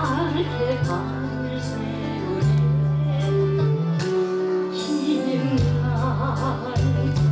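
A woman singing a Korean trot song over held accompaniment chords and a steady beat. The voice drops out in the middle and comes back near the end.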